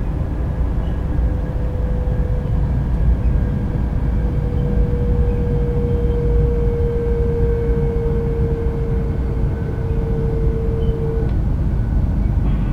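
Interior ride noise of a JR Kyushu 800 series Shinkansen train at speed: a steady low rumble. A faint hum rides on it, sinking slightly in pitch and stopping about eleven seconds in.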